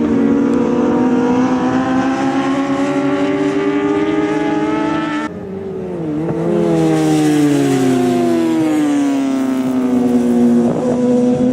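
Racing motorcycle engines at high revs, the pitch climbing steadily as they accelerate. About five seconds in the sound drops off suddenly, the pitch falls in steps as they brake and shift down, and near the end it starts climbing again.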